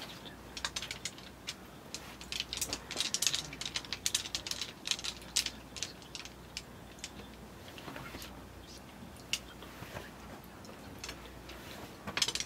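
Irregular light clicks and ticks, densest a couple of seconds in and thinning out later.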